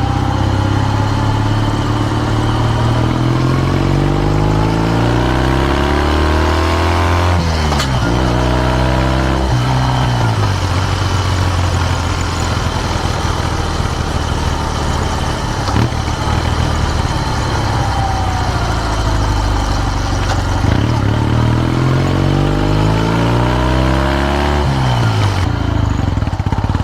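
Kawasaki W650's air-cooled parallel-twin engine through an r's gear Wyvan Classic muffler, the bike being ridden. The exhaust note climbs slowly through the revs twice, each time dropping off quickly near the top, once about a third of the way in and again near the end, with a steadier stretch in between.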